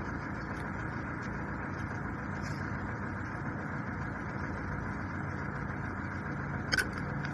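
An engine idling steadily, with one sharp click near the end.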